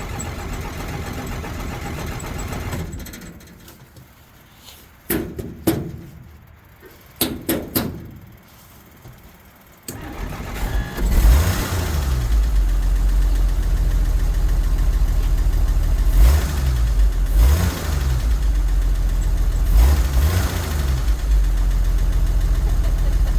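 1963 Jeep Gladiator's engine, having trouble staying running: it dies about three seconds in, a few sharp clicks follow, then about ten seconds in it starts again and keeps running, its revs rising and falling three times as the gas pedal is pumped.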